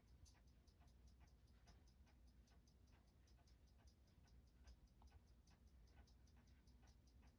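Faint, rapid, even ticking of a running Seiko 6139 automatic chronograph movement, several beats a second, over a low hum.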